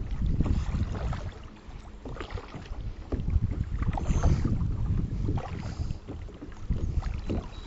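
Gusty wind rumbling on the microphone aboard a fishing kayak, with scattered light knocks.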